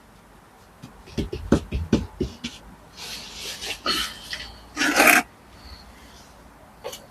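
Bricklaying hand work: a quick run of knocks on brick, then scraping of a trowel over mortar and brick, with one loud rasping scrape about five seconds in.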